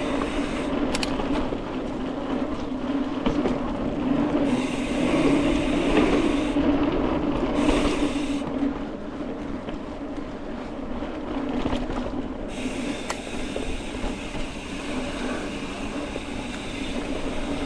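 Mountain bike riding along a dirt trail: steady rolling and drivetrain noise with a constant hum and a couple of sharp clicks or rattles.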